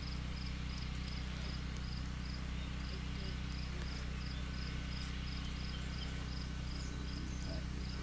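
Steady low hum of honeybees around an open hive. Over it an insect chirps high and evenly, about three to four times a second.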